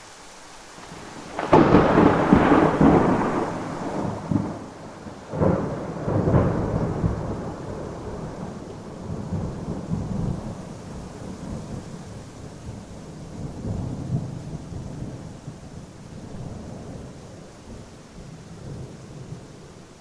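A thunderclap breaks loudly about a second and a half in, with two more cracks around five and six seconds. It then rolls on as a rumble that slowly fades, over steady rain.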